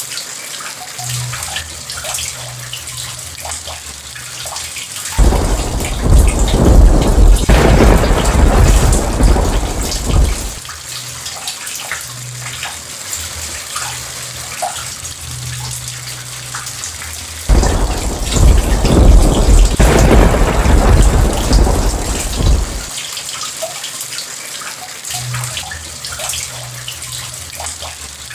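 Steady rain falling, with two long rolls of thunder that each come in suddenly, about five and seventeen seconds in, and rumble for around five seconds before fading back to the rain.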